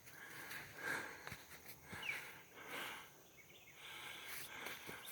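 Faint outdoor woodland ambience, with a brief bird chirp about two seconds in and a few soft rustles.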